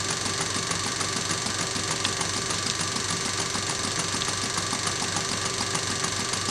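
Scale model Lady Stephanie beam engine running steadily, its mechanism clattering in an even rhythm under a regular exhaust beat.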